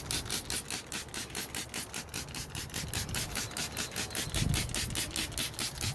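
Trigger spray bottle of degreaser squeezed rapidly and repeatedly, about six short hissing squirts a second, soaking an engine bay.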